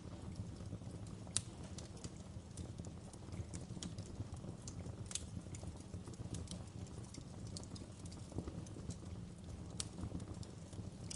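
Wood fire crackling: irregular sharp pops and snaps over a steady low rumble of the flames, with a louder pop about a second and a half in and others near the middle and near the end.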